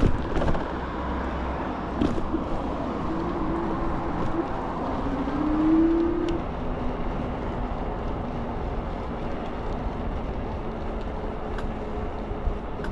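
Steady wind and road noise from riding an electric bike in traffic. A tone rises slowly for a few seconds in the middle and is loudest about six seconds in.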